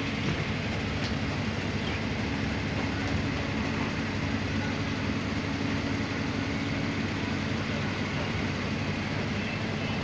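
Passenger train running steadily across a river bridge, heard from the coach: a constant rumble of wheels on the rails with a low steady hum.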